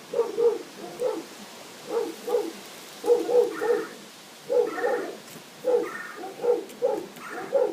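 Young kittens mewing: a run of short, repeated cries, about two a second.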